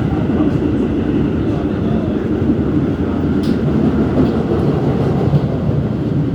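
R211S subway car running at speed, a steady rumble of wheels on rail heard from inside the car, with one brief sharp click about halfway through.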